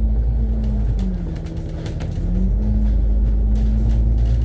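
Double-decker bus engine and drivetrain heard from inside the bus: a steady low rumble with a humming tone. About a second in the hum drops lower and quieter, and it rises back a second and a half later as the bus pulls again. Light interior rattles run throughout.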